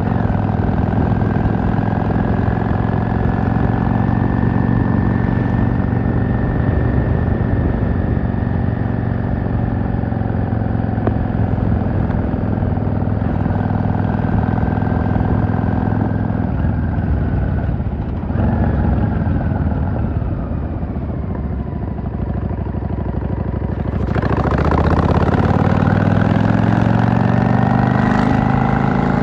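V-twin cruiser motorcycle engine running through its exhaust under a steady throttle. About two-thirds of the way through it eases off and the pitch falls, then it picks up again near the end with a rising pitch as the bike accelerates.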